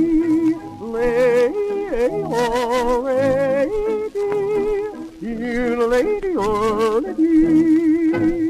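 A man yodeling on an old electrically recorded record, his voice leaping back and forth between low and high notes with a wavering vibrato. The record is played back slower than 78 rpm.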